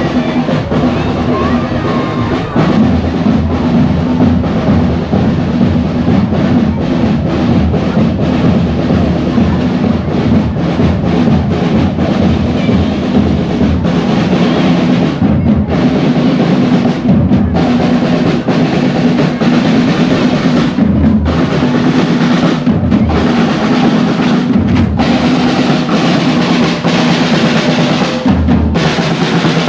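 Loud drum-led music with snare rolls and bass drum beats over a steady low tone.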